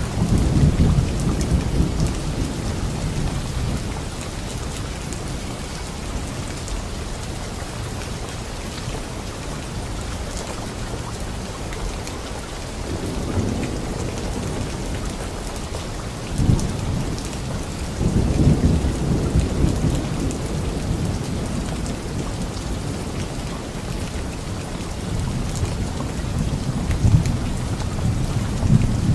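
Steady rain falling, with thunder rumbling low several times, the longest roll about two-thirds of the way through.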